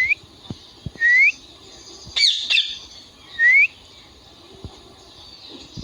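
Indian ringneck parakeet calling: three short rising whistles, with a harsh squawk between the second and the third.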